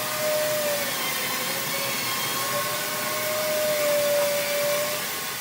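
An electric power tool's motor running steadily: a loud hissing rush with a whine that dips and wavers slightly in pitch.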